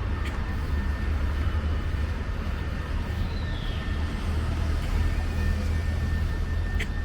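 Steady low rumble of city street noise, with two brief clicks, one near the start and one near the end.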